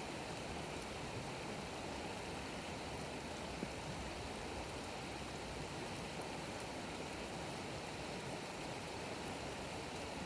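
Wood campfire burning with a steady hiss and a few faint crackles, the last large log being burnt down.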